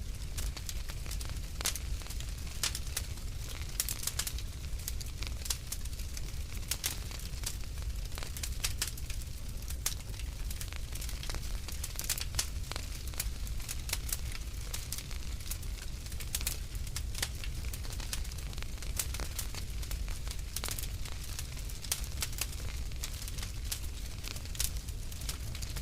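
Wood fire crackling in a fireplace: irregular sharp pops and snaps, several a second at their densest, over a steady low rumble.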